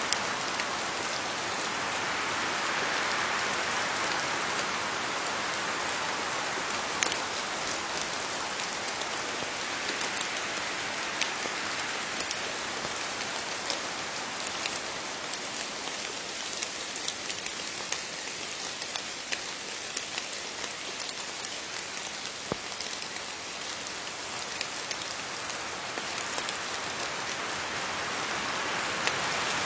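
Steady rain falling on leaves, a continuous patter with scattered sharper drop ticks.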